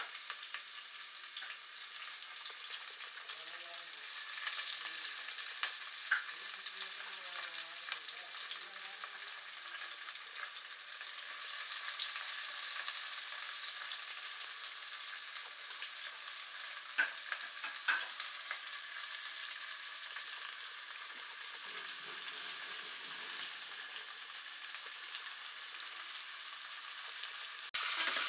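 Sliced onions frying in hot oil with a steady sizzle and a few sharp pops. The sizzle gets louder just before the end.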